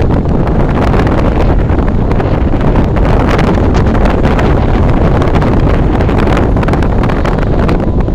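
Strong wind buffeting the microphone: a loud, continuous low rumble with irregular gusts.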